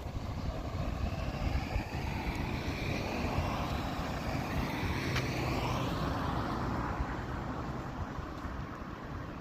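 Car driving along a street: steady low engine and road rumble, with a swell of tyre and road hiss that builds to a peak about halfway through and fades again, like another vehicle passing.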